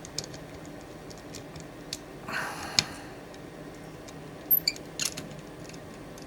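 Sharp small clicks and a short rustle from a knife and sharpening gear being handled on a bench, with one brief high metallic ring about four and a half seconds in.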